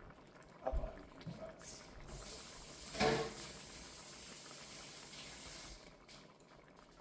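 A steady hiss that starts abruptly, runs for about four seconds and then stops, with a few light knocks, the loudest about three seconds in.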